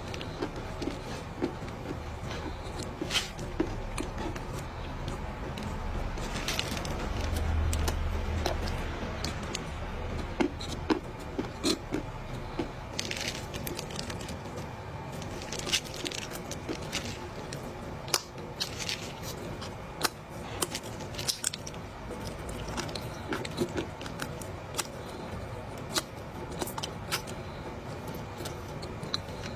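Close-miked chewing of a mouthful of dry edible clay: irregular sharp crunches and crackles, a few every second or two, over a soft, steady squishing of the clay in the mouth.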